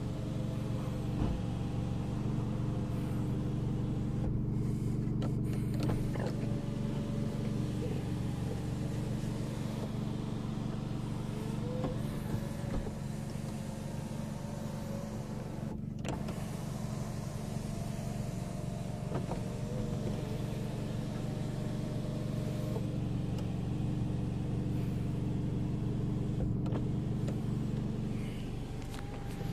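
Hyundai i30 N's 2.0-litre turbocharged four-cylinder, decatted and on an aftermarket exhaust, idling steadily as heard from inside the cabin. The electric sunroof shade motor runs at times.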